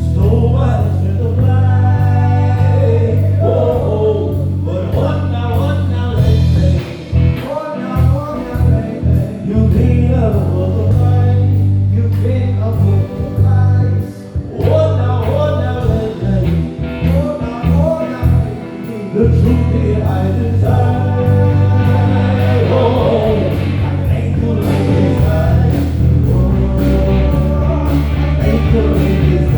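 Live band music: a sustained bass line and drums under keys, with a melodic lead line carried over the top.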